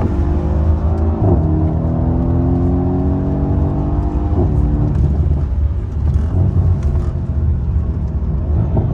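Mercedes-AMG C63 W205's twin-turbo V8 accelerating hard in Sport Plus mode, its pitch climbing steadily and dropping sharply at each upshift, about a second in and again about four and a half seconds in. After that it eases off and runs rougher and less even.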